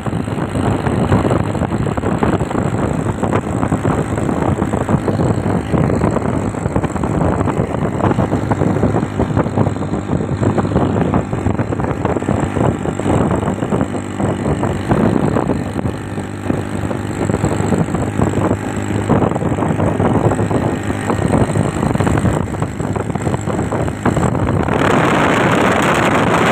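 Motorcycle engine running on the move, with wind noise on the microphone. Near the end the engine sound gives way to a louder, even rush of wind.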